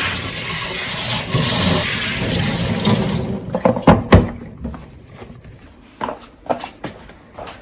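Water rushing loudly for about three seconds, then dying away. A few sharp knocks and clacks follow, two of them loud, then scattered softer ones.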